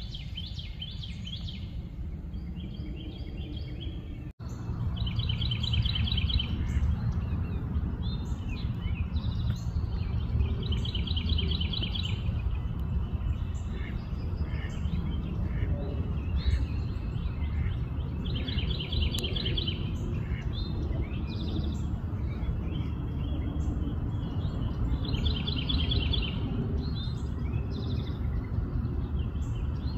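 A small songbird repeating a short, rapid trilled phrase every five to seven seconds, with scattered chirps between, over a steady low outdoor rumble that gets louder after a brief dropout about four seconds in.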